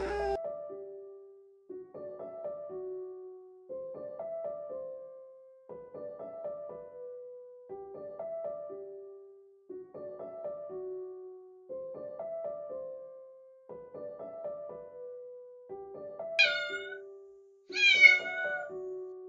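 Kitten meowing twice near the end, two short calls falling in pitch about a second and a half apart, the second one louder. Underneath, soft piano background music repeats a short phrase about every two seconds.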